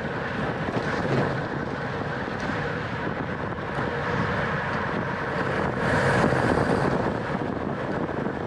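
Wind rushing over the microphone of a racing cyclist's camera at race speed, a steady rush that swells a little about six seconds in.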